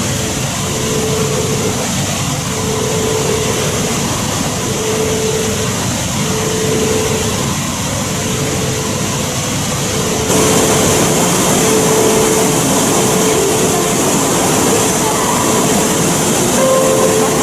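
Shinkansen high-speed train running, a steady rushing noise with a faint tone that keeps coming and going. About ten seconds in the noise abruptly gets louder and hissier.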